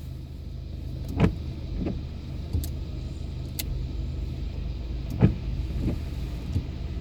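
Abarth Punto Evo's engine idling with a steady low hum, with a handful of scattered short knocks or taps over it.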